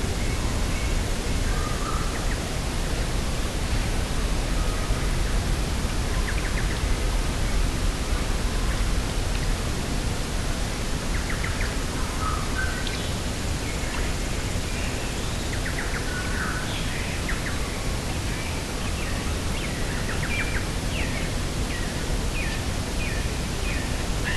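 Steady wind noise with birds chirping in short calls, more often in the second half.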